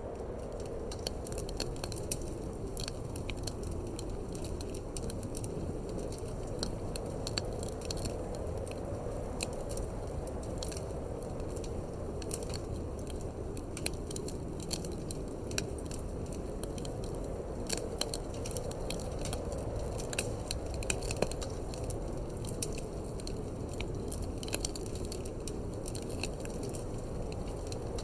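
Wood fire crackling in a fireplace, with frequent irregular sharp snaps and pops over a steady low rush of wind.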